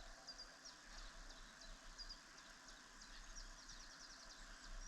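Faint birdsong: many short, high chirps in quick succession over a quiet outdoor background hiss.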